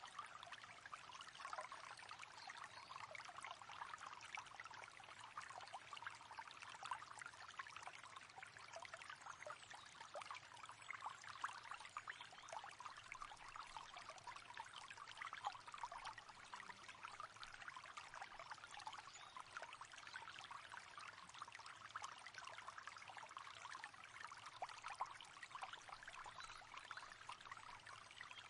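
Faint, steady babble of a flowing river, water trickling and splashing over stones without pause.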